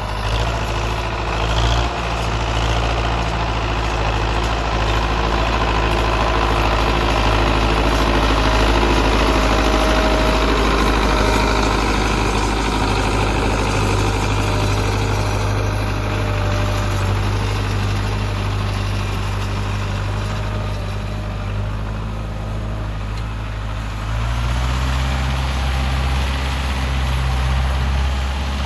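Massey Ferguson 385 tractor's diesel engine running steadily at low revs, its note stepping up slightly near the end as the revs rise.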